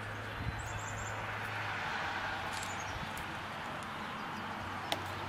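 Outdoor ambience with small birds chirping: two quick runs of short, high, falling notes, about half a second and two and a half seconds in, over a steady hiss, with a sharp click near the end.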